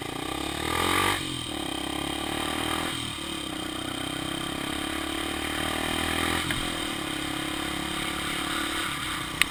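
Honda XR 250 Tornado's single-cylinder four-stroke engine running under way. Its pitch climbs and then drops at each gear change: about a second in, near three seconds, and again past six seconds.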